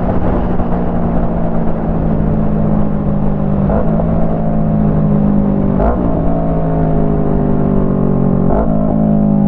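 Yamaha MT-03's 321 cc parallel-twin engine running through a full Jeskap exhaust while riding, its note slowly falling in pitch. Three brief breaks in the note come about four, six and eight and a half seconds in.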